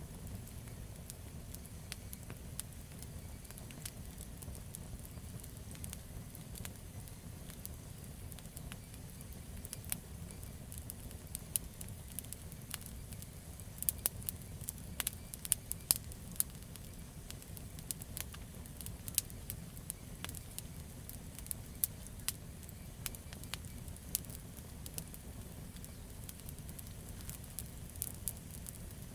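Campfire of burning wood crackling and popping over a steady low rumble, with the pops coming thickest around the middle.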